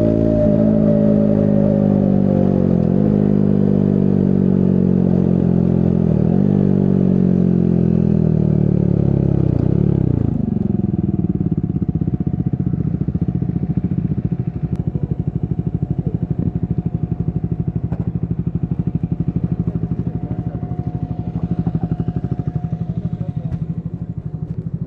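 Triumph Scrambler 400 X's single-cylinder engine with revs falling steadily over about ten seconds as the bike slows, with brief dips along the way. It then settles into a steady low idle.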